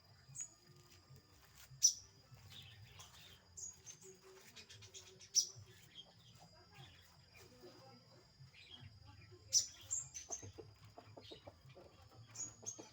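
A bird giving short, high, scattered chirps every couple of seconds instead of its full song, over a faint steady high tone. Soft clicks and rustles fall between the calls, thickest near the end.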